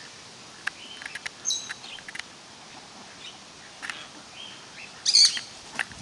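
Birds chirping: short, high-pitched calls scattered over several seconds, with the loudest group of chirps about five seconds in.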